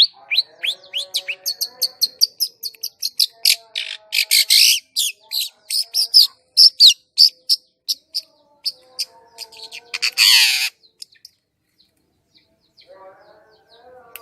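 Long-tailed shrike (cendet) singing a fast, varied string of sharp chirps and chattering notes, with a loud harsh burst about ten seconds in, then a short pause before the song resumes near the end.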